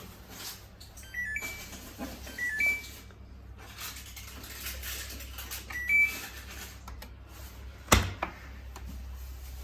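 Samsung WF1700WRW washing machine's control panel beeping: three short chirps of two or three stepped tones each. A single sharp click follows near the end.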